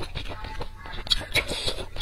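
Close-miked chewing with closed lips: a run of small wet mouth clicks and smacks, with a brief louder crisp patch a little after one second.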